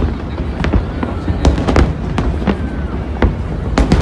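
Fireworks display: a quick run of sharp bangs, about two a second, over a continuous low rumble of further explosions.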